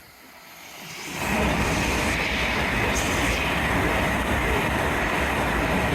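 A Class 801 Azuma electric express train passes through the station at speed without stopping. The rush of wheels on rail and air swells up about a second in and stays loud.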